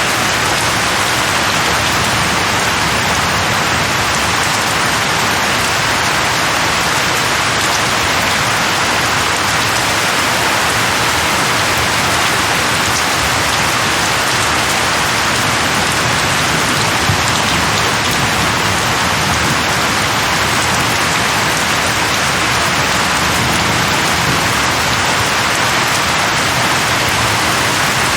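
Steady rain falling on tree leaves: an even, unbroken hiss with no thunder.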